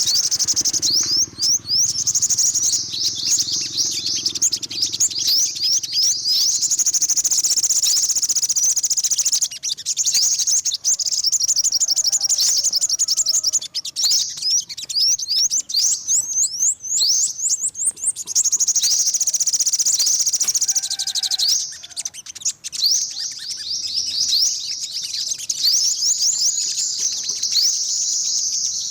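Yellow-bellied sunbird giving fast, high-pitched twittering chirps in long unbroken runs, with short pauses about ten, fourteen and twenty-two seconds in.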